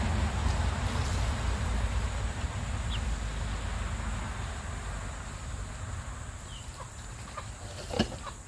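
Chickens clucking with short calls, more often in the second half, over a low rumble that fades away; one sharp knock near the end.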